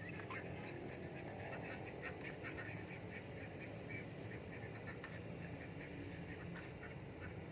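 Domestic ducks quacking and chattering in a steady run of short calls while they feed.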